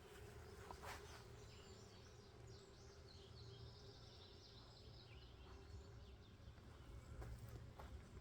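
Near silence outdoors, with faint high bird chirps for a few seconds and a faint steady hum underneath.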